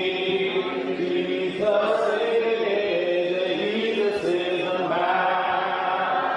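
Congregation singing a hymn a cappella, several voices holding long, slow notes that shift pitch together.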